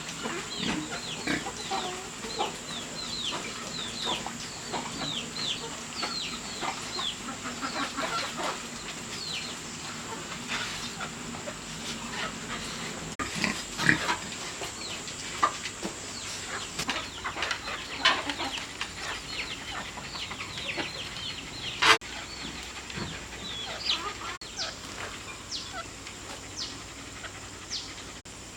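Young animals calling over and over in short, high, squeaky cries that fall in pitch, in quick runs with pauses between, over a steady high buzz. There are a few sharp clicks, the clearest about 22 seconds in.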